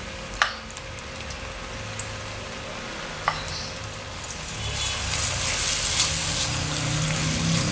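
Ground chilli-shallot spice paste sizzling in hot oil in a non-stick wok while a spatula scrapes and stirs it. There are two sharp taps, about half a second in and about three seconds in. The sizzling grows louder from about halfway through as the paste is spread and stirred over the pan.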